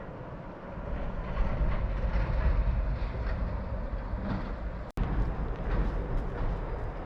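Wind buffeting the microphone as a low rumble that picks up about a second in, over the steady rushing of creek water. The sound drops out for an instant about five seconds in.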